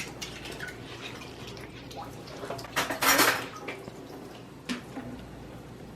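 Small clicks and knocks of utensils and dishes being handled at a table while sushi rice is spread onto seaweed, with a louder scraping, rustling burst about three seconds in.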